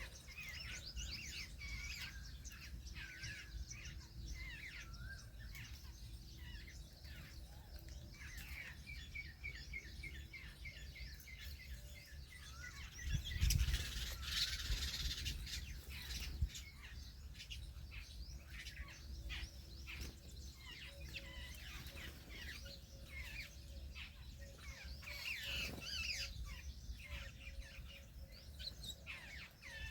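Several birds chirping and calling at once, with a quick run of repeated notes a couple of seconds in and a louder, noisier outburst about halfway through, over a low rumble.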